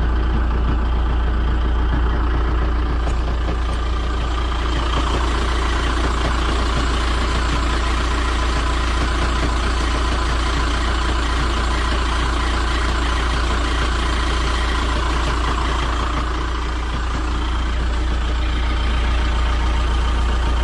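Motorhome engine idling steadily, with the deep steady rumble the owner has been hearing as an abnormal noise and vibration since it came back.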